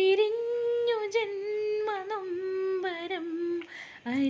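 A woman humming a tune in long held notes that slide up and down in pitch.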